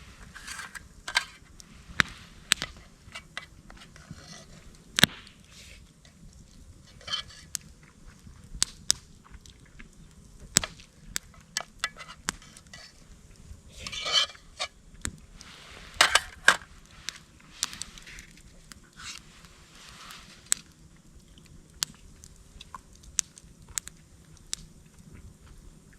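Irregular sharp clicks and knocks, with short scraping and rustling bursts in between, the loudest cluster about fourteen to seventeen seconds in; small objects are being handled at close range.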